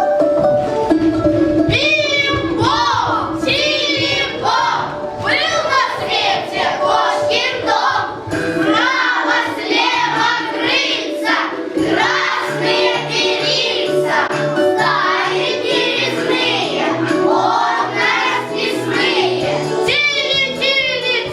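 Children singing a song with an instrumental accompaniment that has a steady bass line.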